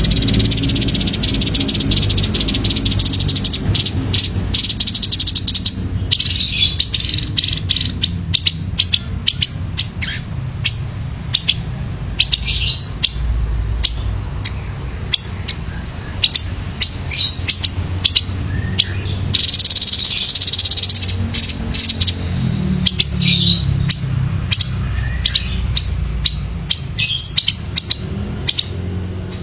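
Grey-headed babbler (tepus kepala abu) calling: fast, dense trilling chatter at the start and again about two-thirds through, with many short, sharp chirps in between. A low rumble runs underneath.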